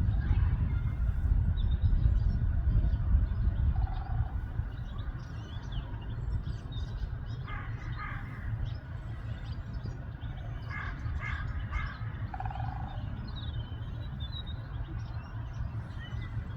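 Birds calling outdoors: two short runs of quickly repeated harsh calls, about 8 and 11 seconds in, with a few scattered calls between. Beneath them runs a low, steady rumble that is strongest in the first few seconds.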